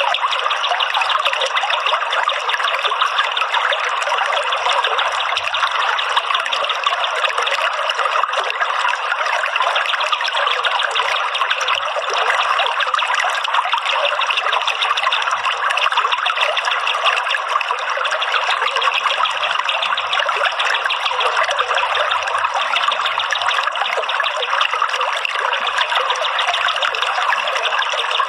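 Running water trickling and splashing steadily, as in a small stream or fountain, with no break.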